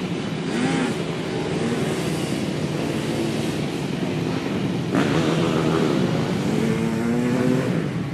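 Dirt bike engine running and revving, its pitch rising and falling as the throttle opens and closes, with a sharp burst of throttle about five seconds in.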